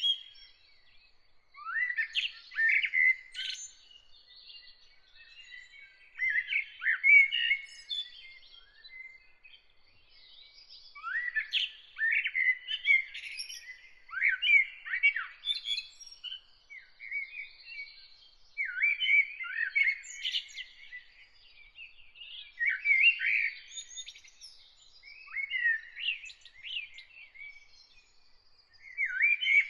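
A songbird singing short, varied chirping phrases, one every two to four seconds, with short pauses between them.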